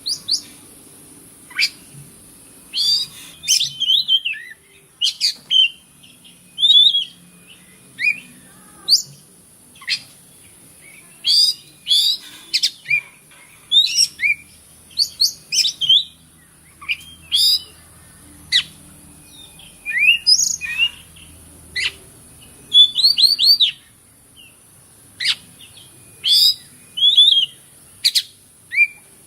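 Oriental magpie-robin (kacer) singing: a run of short, varied phrases of rising and falling whistles and chatters, each under a second, with brief pauses between, over a steady high hiss.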